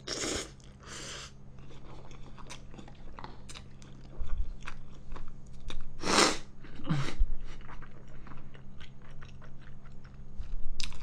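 Close-miked mouth chewing spicy instant jjajang noodles: a slurp of noodles at the start, then wet smacking and small mouth clicks, with one louder noisy burst about six seconds in.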